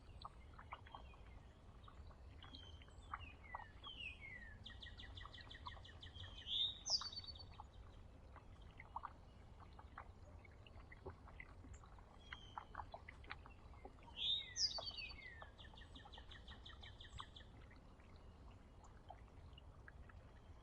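Songbird singing faintly: two similar phrases about ten seconds apart, each a few quick falling notes running into a rapid trill, with scattered short chirps and clicks in between.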